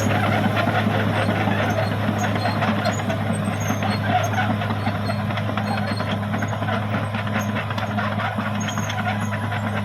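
Caterpillar D6R XL bulldozer working, its diesel engine running with a steady low hum while the steel tracks and blade rattle and clank continuously.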